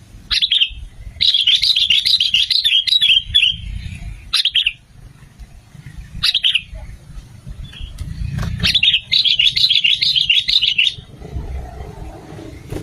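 Sooty-headed bulbul calling: several short sharp notes, and two chattering song phrases of about two seconds each, the first beginning about a second in and the second near the middle.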